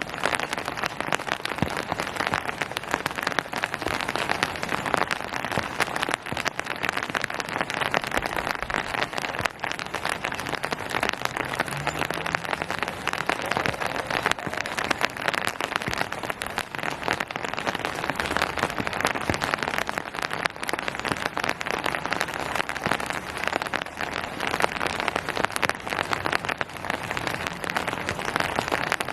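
Steady rain falling on hard surfaces, a dense patter of countless small drop impacts with no let-up.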